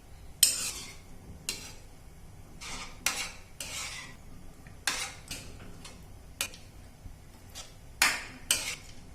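A spoon stirring curd gravy in a pan, knocking and scraping against the pan about a dozen times at an irregular pace, with the loudest strikes near the start and near the end.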